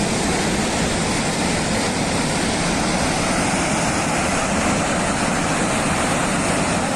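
Loud, steady roar of rushing water.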